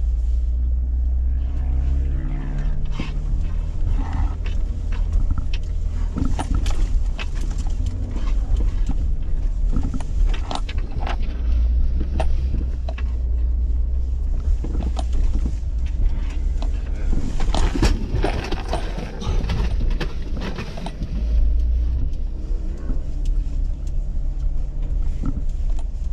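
2012 Jeep Wrangler JK's 3.6-litre V6 running as it crawls over rough, muddy ground, with many knocks, creaks and rattles from the body and loose gear in the back over a heavy low rumble.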